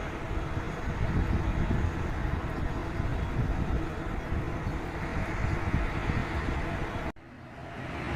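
Steady low rumble of aircraft engines, mixed with outdoor noise. About seven seconds in it cuts out abruptly, then comes back up over about a second.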